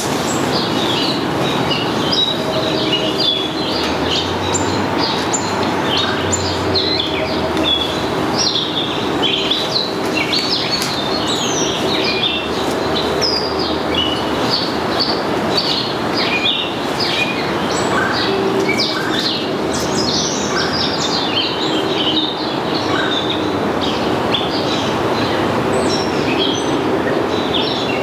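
Songbirds chirping and calling without pause, many short high notes overlapping one another, over a steady rushing background noise.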